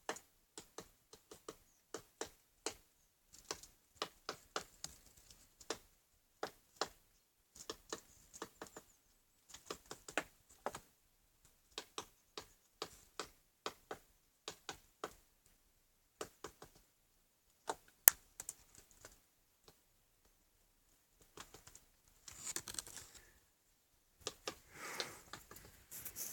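Woodpecker pecking and hammering at dry split bird-cherry firewood while foraging: irregular sharp taps, a few a second with short pauses, and one much louder knock about 18 seconds in. Brief rustling near the end.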